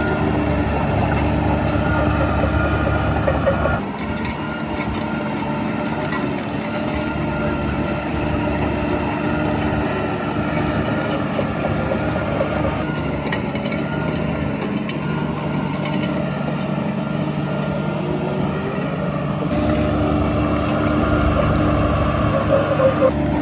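Heavy earthmoving diesel engine running steadily. Its note drops about four seconds in and picks up again near twenty seconds, as the load or throttle changes.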